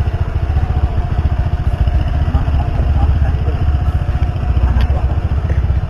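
Motorcycle engine idling close by: a steady, rapid low pulsing.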